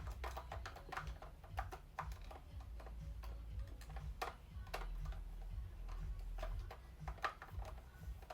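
Irregular small plastic clicks and taps from a Buzz Lightyear action figure being handled, its jointed parts moved.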